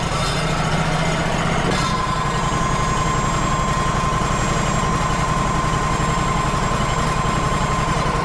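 Wood-Mizer LT35 HD portable sawmill's engine running steadily, just after starting. A steady high whine joins it about two seconds in.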